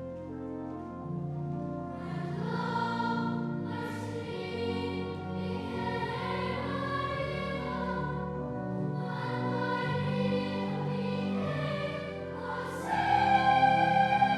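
A choir singing a slow piece in sustained, overlapping lines. It swells noticeably louder about 13 seconds in, onto a strongly held note.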